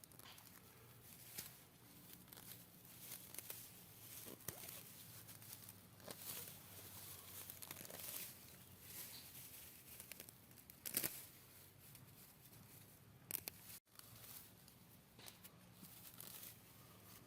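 Weeds being pulled up by hand: faint, irregular tearing and rustling of stems and roots coming out of the soil, with a few sharper snaps.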